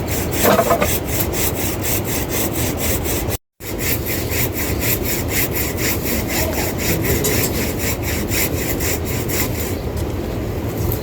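Hand saw cutting through wood in steady back-and-forth strokes, about two to three a second, breaking off briefly about three and a half seconds in before resuming.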